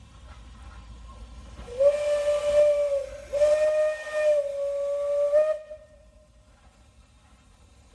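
Steam locomotive whistle, Czech steam loco 213.901, blown twice with a breathy hiss: a blast of just over a second, then a longer one of about two seconds.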